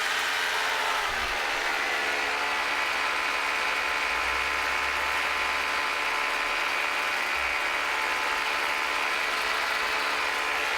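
Electric drill motor running steadily under load as it bores through a brick wall. Its pitch sags slightly about a second in, then holds.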